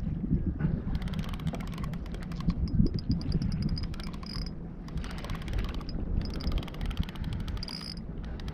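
Fishing reel clicking rapidly in two long spells as line is worked, over a low rumble of wind on the microphone.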